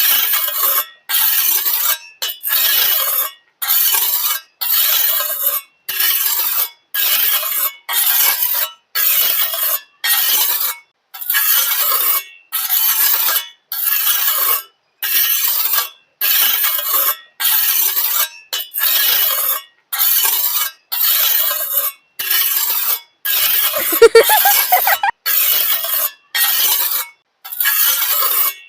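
Repeated short gritty scraping strokes, about one and a half a second, each cutting off sharply into silence. About 24 seconds in there is a brief ringing squeak.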